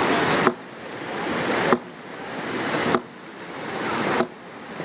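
Heavy downpour, a loud steady rush of rain. Four times, about every second and a quarter, it gives a sharp click and cuts off, then swells back up.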